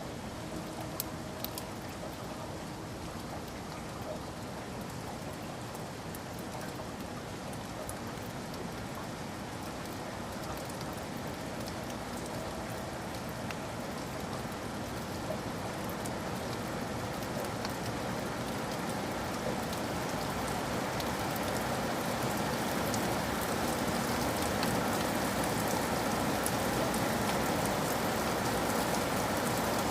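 Steady rain falling, growing gradually louder, with a few sharp drop ticks in the first seconds.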